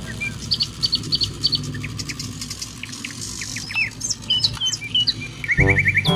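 Birds chirping: a series of short, high chirps and a few falling whistles, ending in a quick trill of notes. Music comes back in just before the end.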